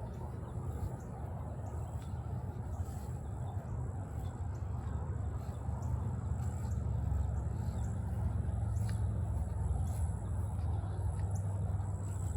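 Outdoor wetland ambience: a steady low rumble, a faint high steady whine, and a few faint short chirps.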